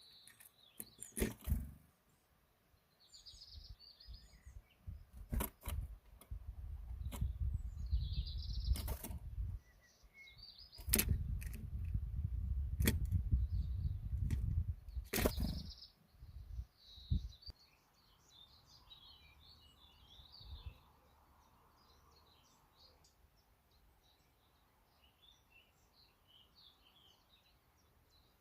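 Small birds chirping in short calls, with several sharp knocks and two bouts of low rumbling in the first half; the second half holds softer, rapid twittering.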